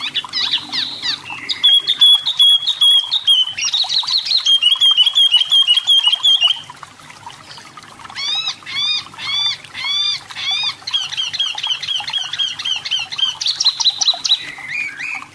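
Pin-striped tit-babbler (tepus lurik, 'wambi mini') singing in fast chattering trills of rapidly repeated notes. After a short pause near the middle comes a run of arched, rising-and-falling whistled notes, then another trill.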